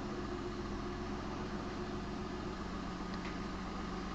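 1999 Mitsubishi Triton's 3.0-litre petrol V6 idling steadily at about 800 rpm in Park, heard from inside the cab.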